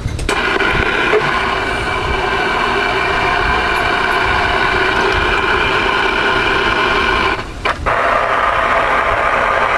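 Steady hiss of CB radio static from the radio's speaker, cut short for a moment about seven and a half seconds in before it comes back.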